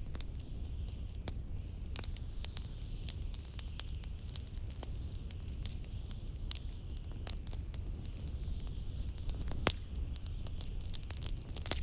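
Wood fire crackling, with irregular sharp pops and snaps (the strongest near the end), over a steady low rumble of wind.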